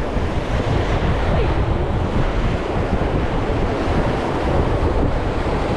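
Fast river water rushing steadily around an inflatable raft, with wind buffeting the microphone as a loud low rumble.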